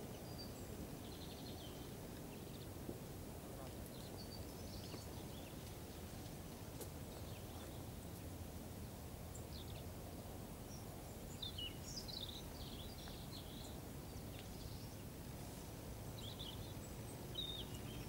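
Small birds chirping on and off in short high calls, most often around the middle and near the end, over a steady low background rumble.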